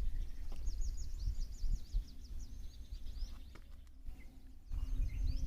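Small birds chirping in a rapid run of quick, high, downward-sweeping notes, over a low rumble; both break off briefly about four seconds in, then resume.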